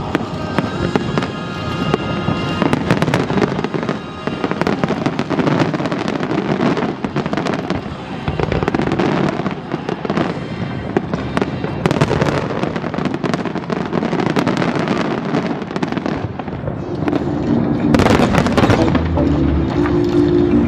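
Fireworks show: dense, rapid crackling and popping with shell bursts, over the show's background music, which comes through more clearly near the end.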